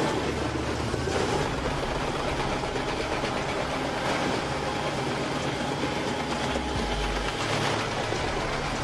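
A heavy machine's engine running with a steady mechanical din.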